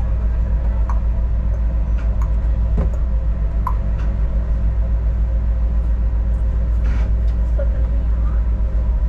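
Adelaide Metro diesel railcar running along the Belair line, heard from inside the carriage: a steady low rumble, with light clicks about once a second in the first four seconds.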